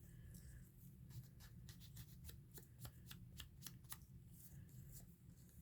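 Faint crisp ticks and rustles of paper being handled, a quick run of them from about a second in until about four seconds in, over a low steady room hum.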